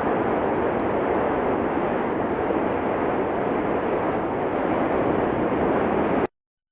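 Cumbre Vieja volcano erupting: a steady rushing noise that cuts off abruptly near the end.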